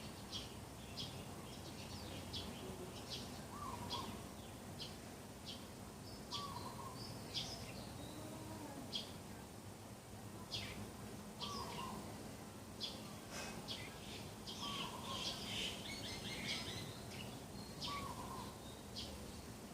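Several birds chirping and calling in a morning chorus: quick, high chirps come throughout, and a lower call repeats every few seconds.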